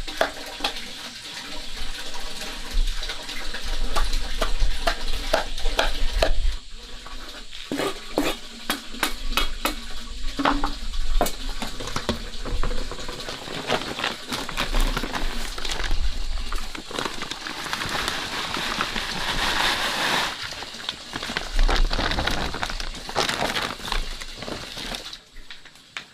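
Food frying in a pan with a steady sizzle, stirred with a utensil that clicks and scrapes against the pan many times.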